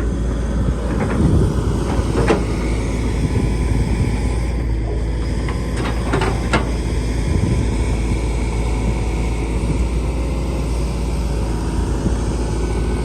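Hitachi ZX135US-3 excavator's diesel engine and hydraulics running steadily under working load, with a few sharp knocks about one to two seconds in and a pair around six seconds in.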